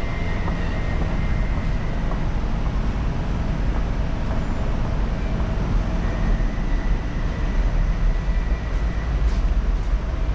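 Docklands Light Railway train running: a steady low rumble with a faint high whine.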